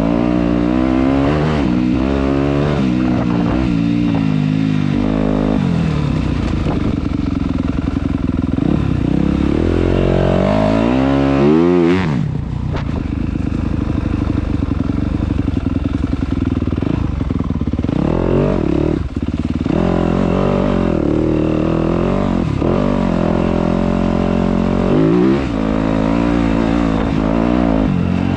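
Dirt bike engine running close and loud, its revs rising and falling again and again as the rider works the throttle. About twelve seconds in it climbs sharply and then drops away.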